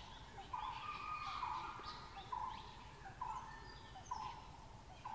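Forest birdsong: a bird repeats a single short, even note about once a second, while other birds chirp and trill higher up.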